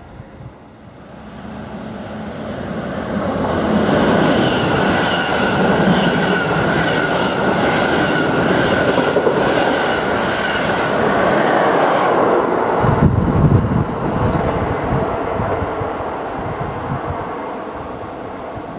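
A train passing through a station: it builds up over the first few seconds and is loudest through the middle with a steady high whine over the rumble. About two-thirds of the way through the whine drops away, leaving a rougher low rumble with knocks that eases off toward the end.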